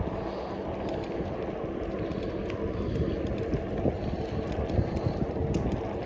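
Rolling noise of a fat-tire e-bike on pavement: a steady low rumble from the tyres and wind on the microphone, with a faint steady hum and scattered small clicks.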